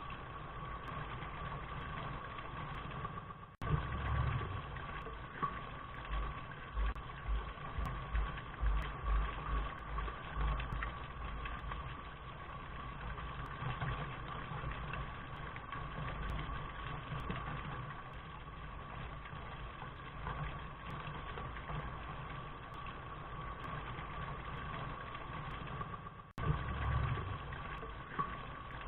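Steady rain, an even hiss with irregular low thumps underneath. The sound drops out for an instant twice, a few seconds in and near the end.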